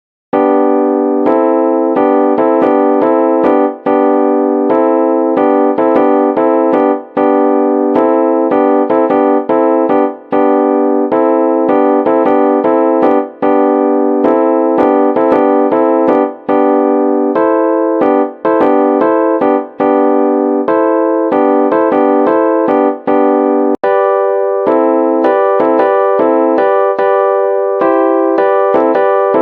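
Background music played on an electric piano-style keyboard: a continuous stream of sustained chords and quickly struck notes, starting after a brief silence at the very beginning.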